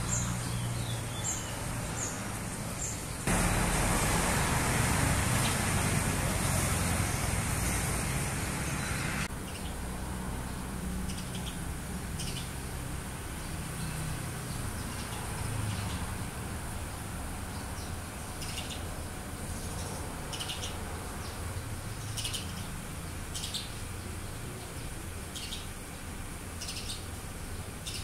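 Small birds giving short, sharp, high chirps over and over at irregular gaps of about a second, alarm calls at a green snake beside their nest. From about three seconds in, a louder even rushing noise drowns them for some six seconds.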